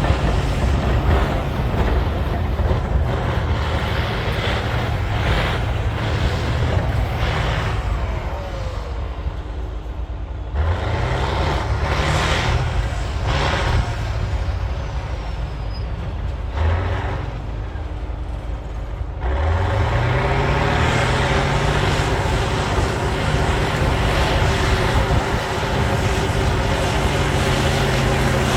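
Cat D9L bulldozer's V12 diesel engine working hard under load. It eases off around the middle with a couple of brief revs, then revs back up and holds high near the end.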